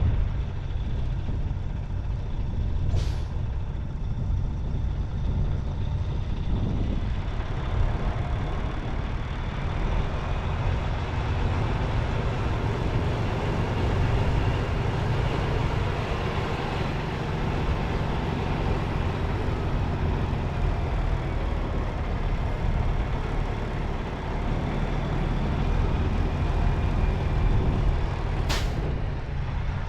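Semi truck's diesel engine running steadily, with two short air hisses from the truck's air system, one about three seconds in and one near the end.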